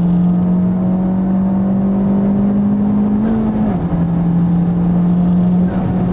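Honda Civic Type R FK8's 2.0-litre turbocharged four-cylinder engine pulling hard under full acceleration, its note climbing slowly. About halfway through the revs drop sharply with an upshift and then climb again, and they drop once more near the end.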